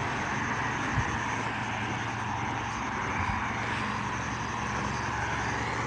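A jet airliner flying past, its engines a steady rushing noise.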